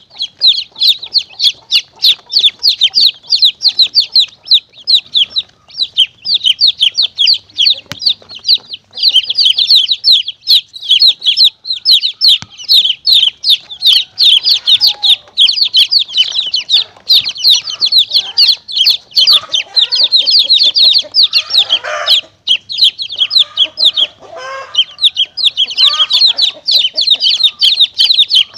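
A crowd of domestic chicks peeping rapidly and without pause in high, falling peeps, with lower clucks mixed in for a stretch about halfway through. It is a recorded predator-calling lure used to draw monitor lizards and mongooses.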